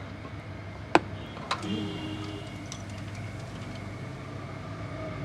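A steady low mechanical hum with two sharp clicks, about a second and a second and a half in.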